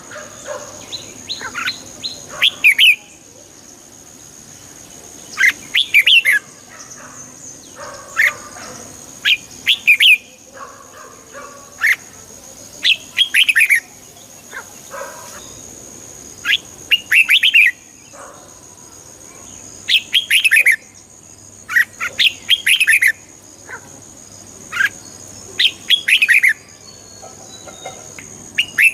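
Red-whiskered bulbul singing: short, quick warbled phrases repeated every two to four seconds, over a faint steady high-pitched tone.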